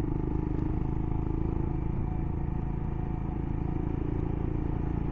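Royal Enfield Himalayan's single-cylinder engine running steadily as the motorcycle rides along the road.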